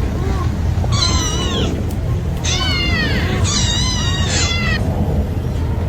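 Kittens meowing: several high-pitched calls that rise and fall, about a second in, then two longer ones in the middle of the stretch, over a steady low rumble.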